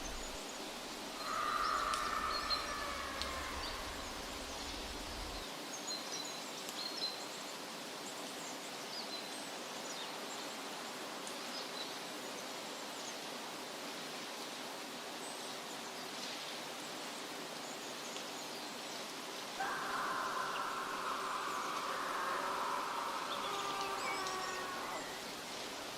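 Forest ambience: a steady outdoor hiss with scattered short, high bird chirps. Twice, about a second in and again about twenty seconds in, several steady ringing tones sound together for a few seconds and fade.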